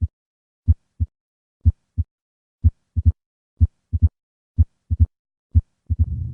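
Heart sounds of combined mitral stenosis and mitral regurgitation, played in stages: first and second heart sounds as paired low thumps about once a second, then an opening snap just after the second sound from about three seconds in. Near the end, the low diastolic rumble of mitral stenosis begins after the snap.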